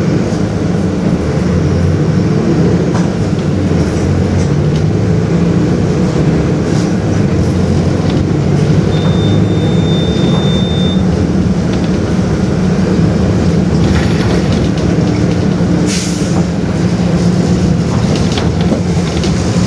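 Mercedes-Benz OF-1721 bus diesel engine running steadily under way, with body rattles. A short, high steady beep sounds for about two seconds midway.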